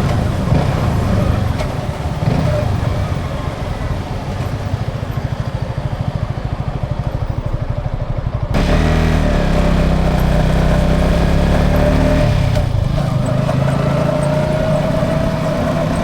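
Yamaha XSR 155's single-cylinder engine running under way, with road and wind noise. It drops for a few seconds to a quieter, even putter, then about halfway through jumps back louder and steadier, with a brief dip near the end.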